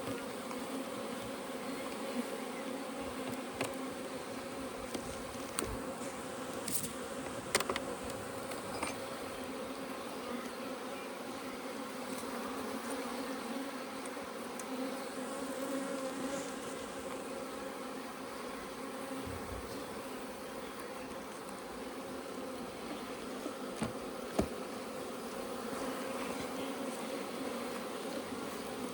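Honeybees buzzing steadily during a hive inspection, a constant hum from the colony, with a few sharp clicks or knocks: two close together about a quarter of the way in and one near the end.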